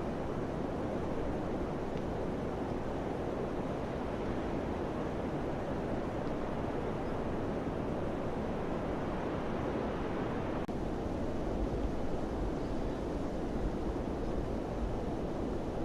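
Steady wind rushing, with a low gust swelling about twelve seconds in.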